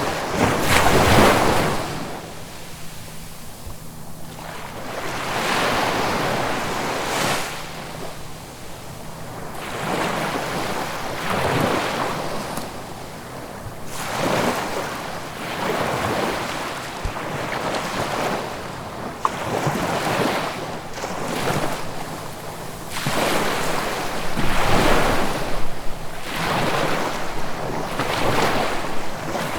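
Ocean waves breaking and washing up the shore, one surge of surf every few seconds, the strongest about a second in and again near the end.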